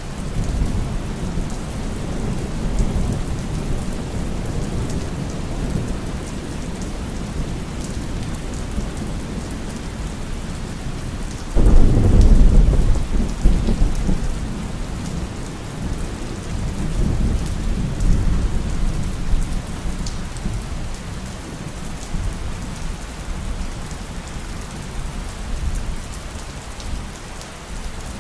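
Heavy rain falling steadily under a continuous low rumble of thunder. About midway a sudden, much louder thunderclap breaks in and rolls off over several seconds, followed by a smaller swell of rumbling.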